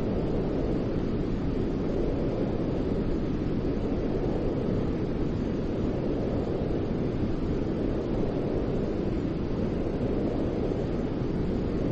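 Steady white noise: an even, unchanging hiss with most of its weight in the low, rumbling end.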